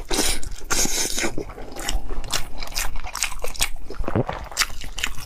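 Close-miked wet chewing of soft braised pork intestine: sticky, squelching mouth sounds with many quick lip and tongue clicks.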